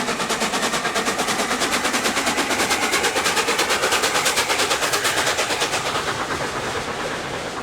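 Steam locomotive working hard at speed, its exhaust beating rapidly and evenly. The beats fade away about six seconds in, leaving the rumble of the train.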